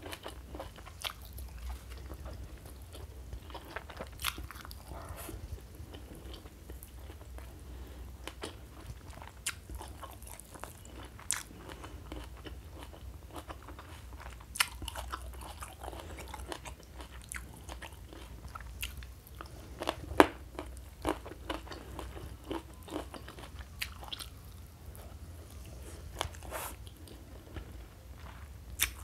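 A person chewing and crunching food close to the microphone, with irregular sharp crunches. The loudest crunch comes about twenty seconds in.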